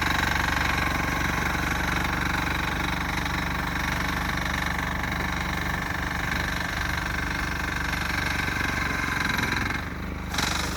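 Sears Suburban garden tractor's 6 HP air-cooled single-cylinder diesel engine running steadily while plowing snow. Its sound dips briefly near the end.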